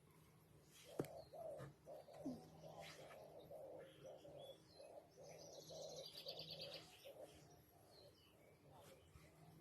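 Faint bird calls: a run of evenly repeated low notes, with a high rapid twittering trill about five to six seconds in. A single sharp click sounds about a second in.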